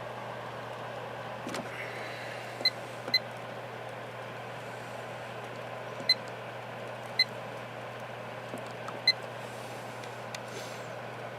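Air King 9218 high-velocity fan running steadily on high: a constant motor hum under the rush of air. Five short, sharp high beeps cut through it, two close together early on, then three spread over the next several seconds.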